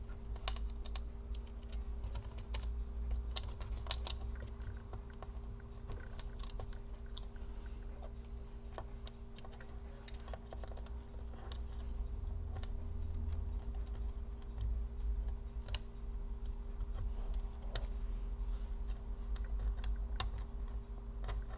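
Irregular small clicks and taps of a laptop's parts and screws being handled and fitted during reassembly, over a steady low hum.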